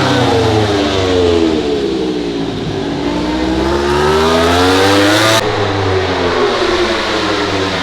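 MotoGP racing motorcycle engines at high revs. The engine note falls as a bike slows, then rises steadily as it accelerates away; about two-thirds of the way through the sound changes abruptly and another falling engine note follows.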